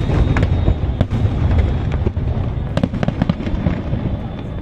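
Aerial fireworks bursting: a rapid run of bangs and crackles over a deep rumble of shells, loudest in the first half, with a cluster of sharp cracks a little before three seconds in.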